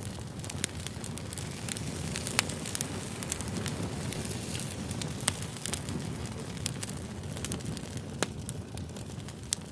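Fire crackling: a steady low rumble of flames with sharp pops and snaps scattered irregularly throughout, a few noticeably louder than the rest.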